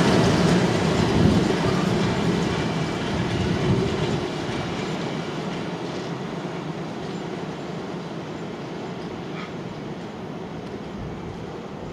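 The tail end of a freight train of empty flat wagons rolling past and away along the rails, its wheel-on-rail noise fading steadily.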